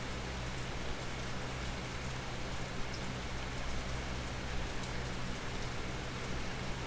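Steady rainfall, with scattered sharper drops standing out from the even hiss. A steady low hum runs underneath.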